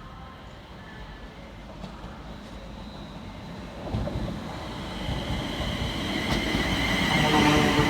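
A Class 350 Desiro electric multiple unit approaches, its rumble growing steadily louder. Near the end a whine of several steady tones comes in over the rumble.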